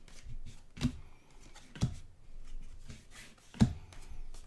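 Trading cards being handled and flipped through, with a faint rustle and three soft sharp taps about a second or two apart as cards are set down.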